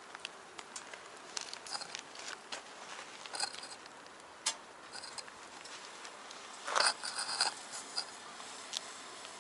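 Wood fire crackling in a small box stove: irregular sharp pops and clicks, with a denser burst of crackles about seven seconds in.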